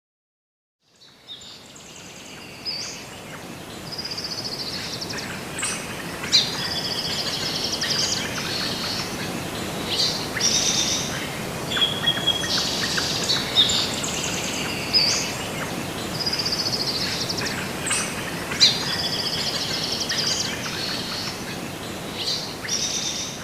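Birds chirping and calling over a steady background hiss, with repeated short high trills and whistles. The sound fades in from silence about a second in.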